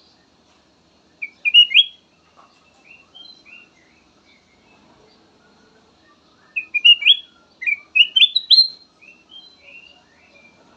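Kutilang emas bulbul singing: a short burst of quick, rising, whistled notes about a second in, then a longer, louder run of rising phrases from past the middle to near the end.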